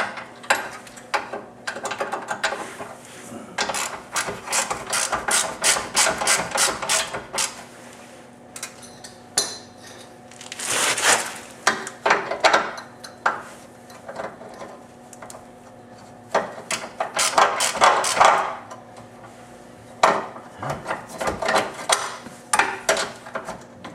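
Hand socket ratchet clicking in quick runs as nuts and bolts on the car's rear subframe and control arms are run down and tightened. A louder scraping stretch comes about ten seconds in.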